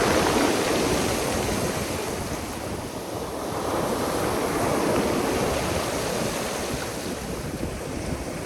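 Black Sea surf breaking and washing on the shore: a steady rush of water that swells and ebs, loud at first, easing about three seconds in, then building again with the next wave.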